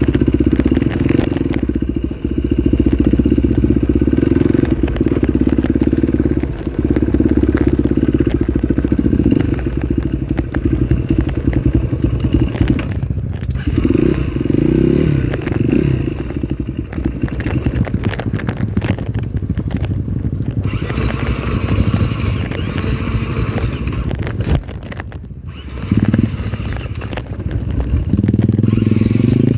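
Trail motorcycle engine running under changing throttle, the revs rising and falling as it rides, with brief let-offs about halfway through and again near the end.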